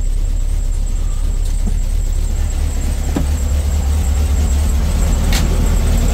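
VW Beetle's air-cooled flat-four engine running steadily just after starting, with a slight miss that the owner suspects comes from a carboned-up spark plug not yet changed. Two sharp clicks about three and five and a half seconds in.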